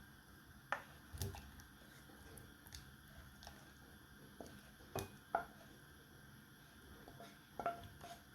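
Scattered light clicks, taps and soft rustles of small objects being handled, a few sharp ticks among them.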